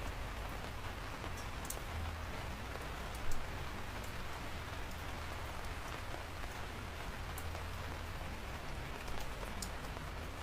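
Steady rain falling, a dense hiss with sharp individual drop ticks scattered through it and one louder knock about three seconds in.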